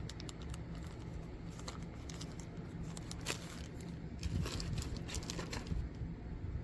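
Crinkling and crackling of a plastic blind-box bag being torn open along its perforation and handled: a scatter of sharp crackles over a low steady rumble.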